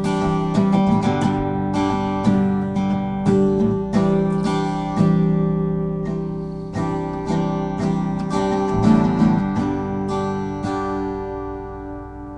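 Acoustic guitar strummed in slow, steady strokes, its chords ringing and gradually getting quieter.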